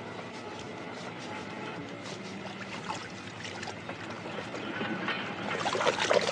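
A vehicle engine idles steadily under a petrol-station scene. Near the end comes a rising splashing hiss of fuel overflowing from a car's filler neck.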